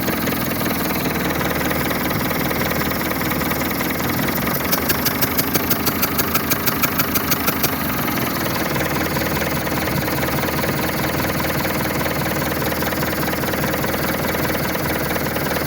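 Diesel engine idling steadily. A quick run of sharp ticks, about five a second, joins it for some three seconds a little before the middle.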